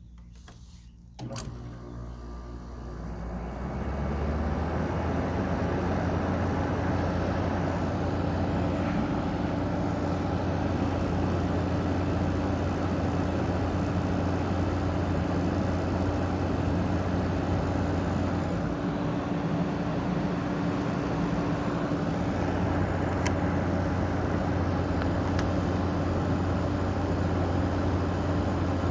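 General Electric 5050 BTU window air conditioner with a Gree compressor starting up: a click about a second in, then the unit spins up over a few seconds and settles into a steady running hum.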